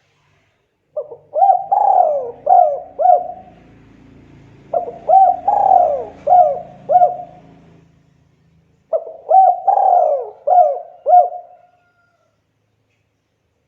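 Spotted dove cooing: three phrases of four or five notes each, a couple of seconds apart.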